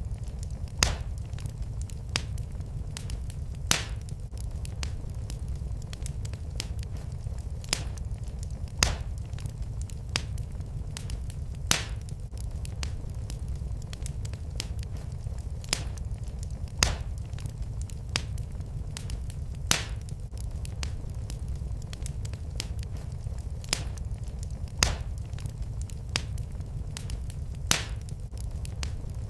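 Wood fire burning: a steady low rumble of flames with sharp pops and cracks from the wood every second or two.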